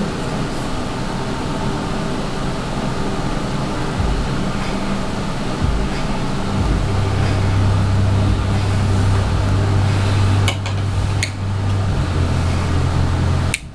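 A steady mechanical hum, with a deeper drone that comes in about six seconds in, and a few short clicks near the end.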